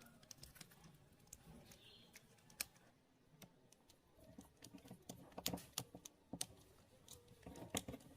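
Light, scattered clicks and taps of small parts being handled at a workbench, bunching into quick runs about five seconds in and again near the end.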